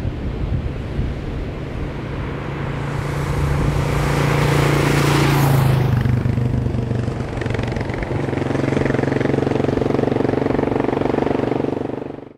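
Motorcycle engine running steadily, with a swell of noise that builds and peaks about five seconds in, like a close pass-by, then falls away. The engine note changes to a higher pitch about eight seconds in and cuts off abruptly at the end.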